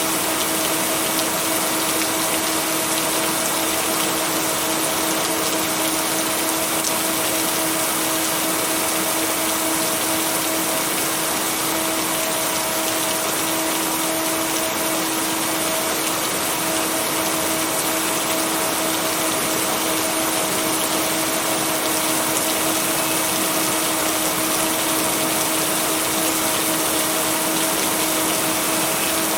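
Steady heavy rain, an even hiss with no breaks or thunder, over a steady low tone that is the binaural-beat layer blended into the rain track.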